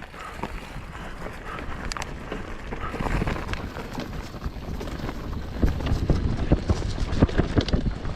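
Mountain bike rolling over a rough, rocky forest trail: tyres rumbling on dirt and rock, the bike rattling and knocking with many quick clatters that grow denser and louder from about three seconds in, with wind on the microphone.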